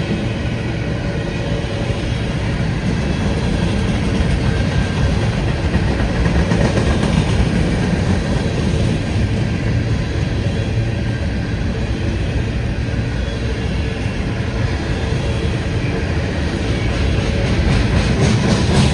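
Freight train cars rolling past at close range, a steady loud rumble and rattle of wheels on the rails.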